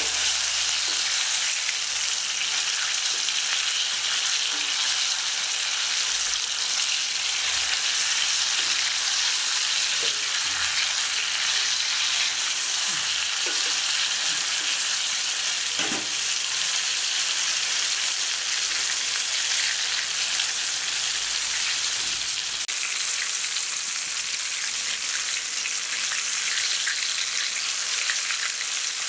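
Breaded chicken pieces frying in hot oil in a steel wok: a steady sizzle.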